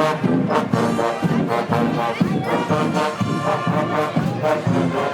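Guggenmusik band playing: loud brass (trombones and trumpets) over a steady drumbeat.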